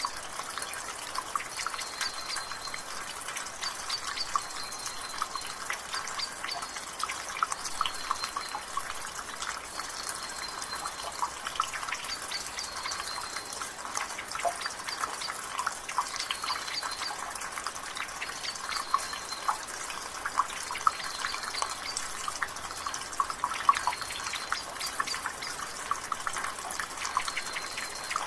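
Rainwater dripping and splashing from a gutter over a steady rain patter, many quick drips close together. A bird repeats a short high call every two seconds or so.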